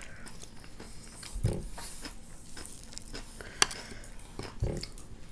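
Close mouth sounds of eating: wet chewing clicks and smacks, with one sharp click about three and a half seconds in and two short low sounds around one and a half and four and a half seconds.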